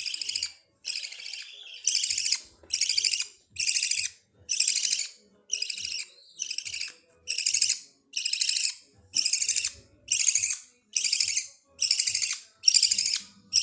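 Baby budgerigars giving raspy begging calls in a steady rhythm, about one call every two-thirds of a second: the food-begging of hungry chicks.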